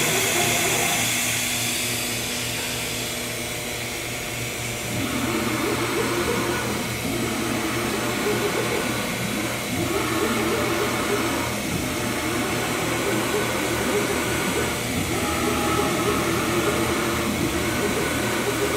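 Jones & Shipman Suprema 650E CNC cylindrical grinder moving its axes on its FANUC AC servo motors before the grinding wheels are started. A hiss fades over the first couple of seconds, then the machine runs in a series of moves broken by brief pauses about every two seconds.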